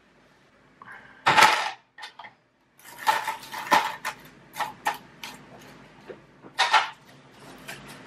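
Clinks and gritty rattles of potting work with a lava and pumice rock mix: a loud scraping rattle about a second and a half in, then a cluster of clicks around three to four seconds and another near seven.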